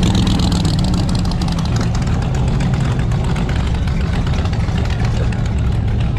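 Car engine running steadily at low revs with an even, low rumble.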